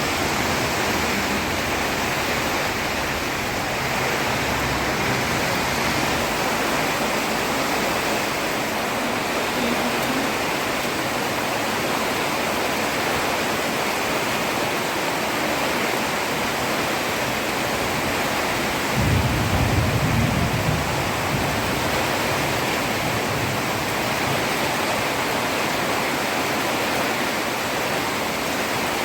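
Heavy rain falling steadily on a road, a dense even hiss. About two-thirds of the way through, a low rumble swells for a couple of seconds.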